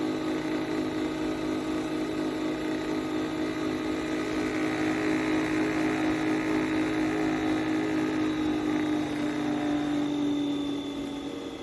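Nespresso Vertuo Next coffee machine running a brew cycle: a steady motor hum with a high whine over it, which drops in pitch and fades about ten seconds in.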